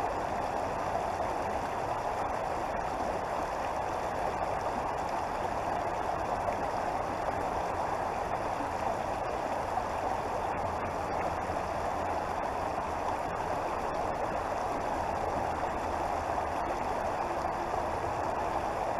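Creek water flowing steadily over its bed, a constant rushing with no change in level.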